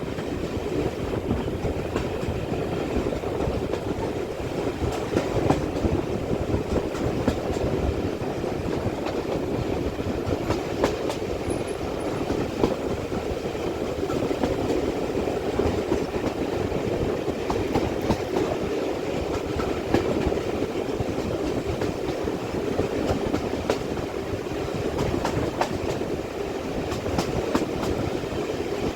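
Steam-hauled passenger train running along the track: a steady rumble from the coaches, with scattered sharp clicks of the wheels over the rail joints.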